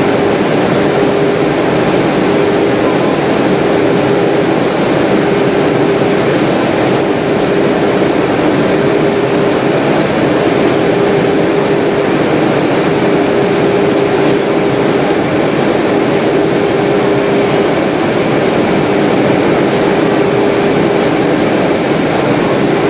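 Steady airliner cabin noise in flight: jet engines and rushing airflow with a constant hum.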